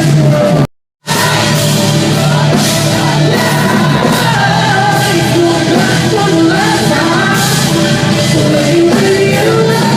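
A rock band playing live, loud, with sung vocals over guitars and drums, heard in a large hall. The sound cuts out completely for a split second just under a second in, then the band carries on.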